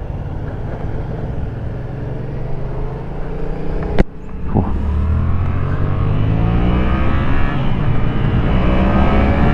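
2019 Yamaha MT-07's parallel-twin engine pulling under acceleration, its note rising steadily. About four seconds in a sharp click and a brief drop in the note mark a gear change, and then the engine climbs again.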